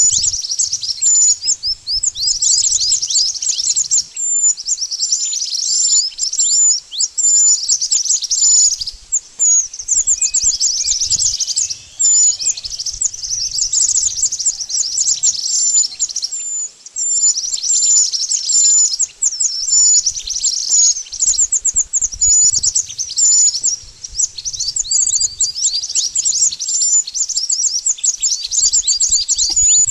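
Song of a mantenan bird: loud, high-pitched chirps, each a quick downward-sweeping note, run together in fast trilled phrases with short breaks between them.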